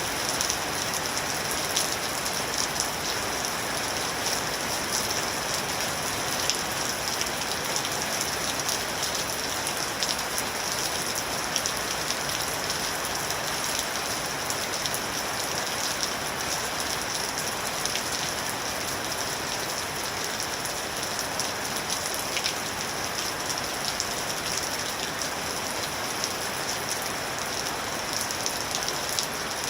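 Steady rain falling on a surface: a continuous hiss with many small drop ticks scattered through it.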